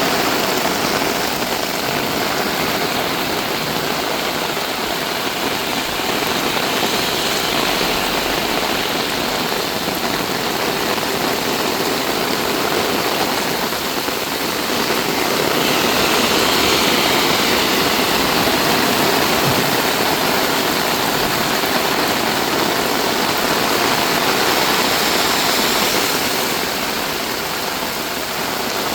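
Heavy rain pouring down, a steady dense hiss of a downpour that swells slightly a little past the middle.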